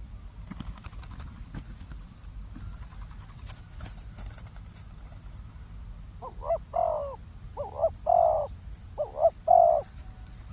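Spotted dove cooing: three phrases in quick succession in the second half, each a couple of short notes followed by a longer held note.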